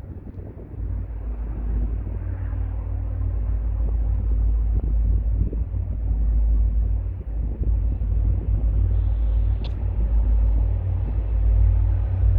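MBTA commuter train with a diesel locomotive passing, a deep, steady rumble that grows louder, with a brief high squeak near the end.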